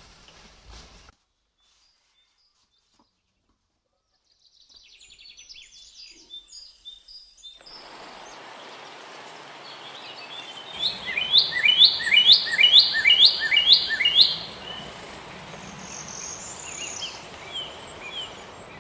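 Songbirds chirping over a steady outdoor background hum. Midway one bird gives a loud run of about eight quick falling notes, roughly two a second, and lighter chirps follow near the end.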